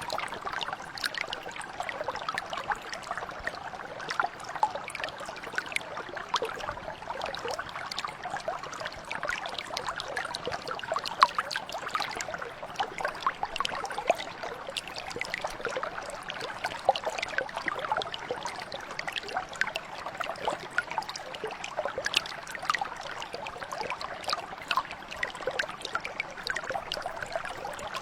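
Small mountain brook flowing steadily, with constant babbling and trickling over stones.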